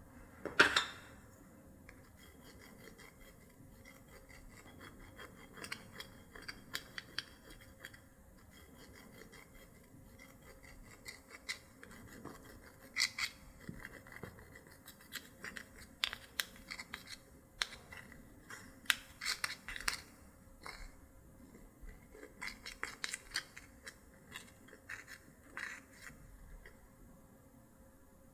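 Slime and makeup being worked by hand: irregular sharp clicks, crackles and scrapes, with a loud click just under a second in and denser clusters later on.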